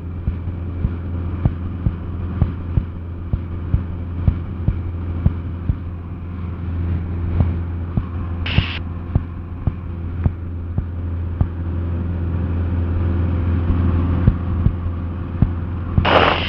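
Cessna 172SP's four-cylinder Lycoming engine and propeller droning steadily in cruise, heard inside the cabin. Faint regular ticks come about twice a second, and there is a short hiss about halfway through.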